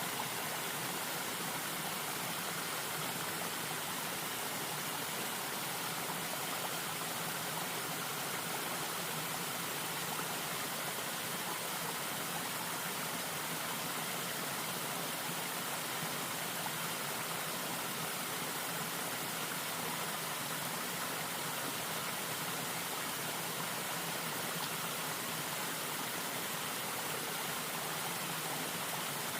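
Stream water rushing and splashing in a steady, unbroken flow.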